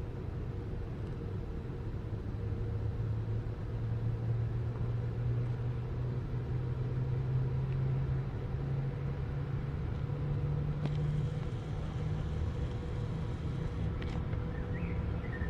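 Low rumble of a distant vehicle, its hum slowly rising in pitch, with a faint higher hiss for a few seconds past the middle and a couple of faint bird chirps near the end.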